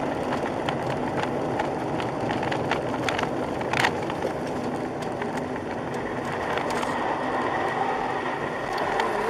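Steady road and engine noise of a moving car as picked up by a dashcam, with scattered light clicks and knocks, the strongest about four seconds in.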